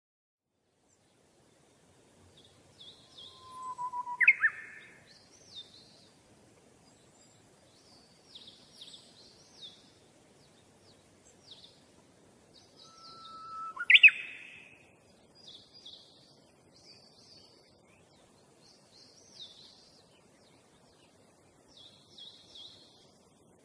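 Small birds chirping and twittering in many short high notes. Twice, about ten seconds apart, a louder call stands out: a brief held whistle that jumps sharply up in pitch.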